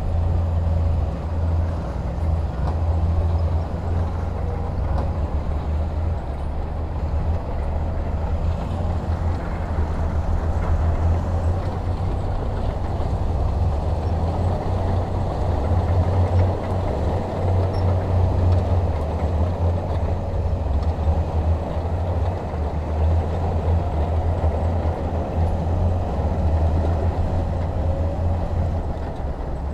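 Heavy diesel engine machinery running steadily under load, a deep continuous rumble.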